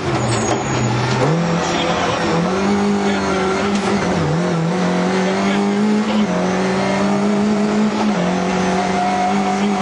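Rally car engine heard from inside the cabin, running hard at high revs. The revs dip briefly about a second in and again around four seconds, then hold with small drops near the end.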